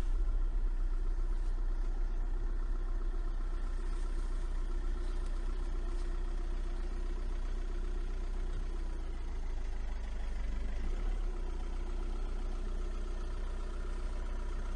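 An engine running steadily at a constant speed, a low hum with a few steady tones over it.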